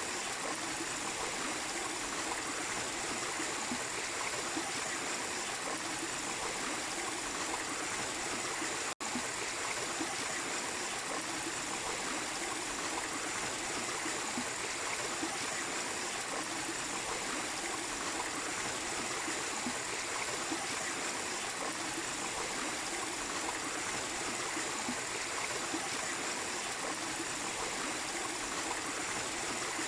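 Small waterfall splashing and water running steadily in a continuous rush, broken once by a split-second gap about nine seconds in.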